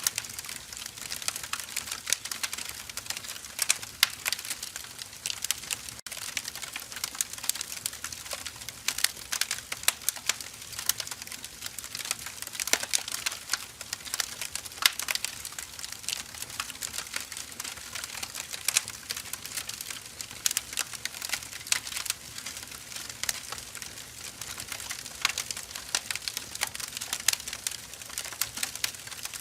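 Burning firewood crackling: a continuous stream of quick irregular snaps and ticks, with scattered louder pops.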